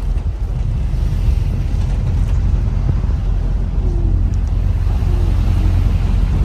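Bus engine and road noise heard from on board: a steady low rumble while the bus drives along. A faint tone that wavers in pitch joins it from about four seconds in.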